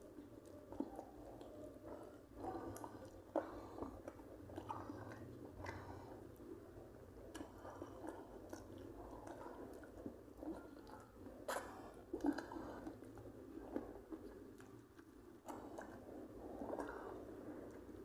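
A person chewing food close to the microphone: wet chewing and smacking with irregular small clicks from the mouth.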